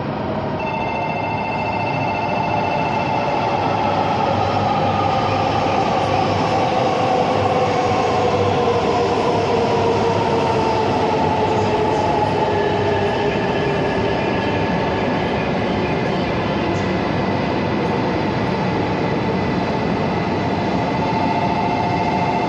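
Tohoku/Yamagata Shinkansen train pulling into the station: rolling noise with its traction motors' whine sliding slowly lower in pitch as the train slows to a stop.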